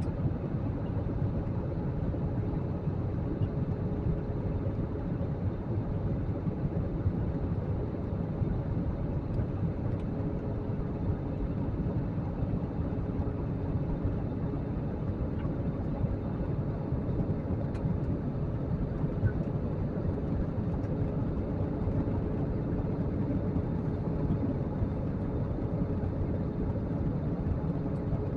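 Steady drone of a jet airliner heard from inside the passenger cabin in flight: engine and airflow noise, a constant low rumble with a faint steady hum running through it.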